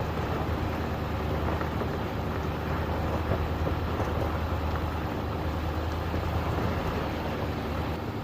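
A large engine running steadily at constant speed, with a low hum under a rougher mechanical noise and no change through the stretch.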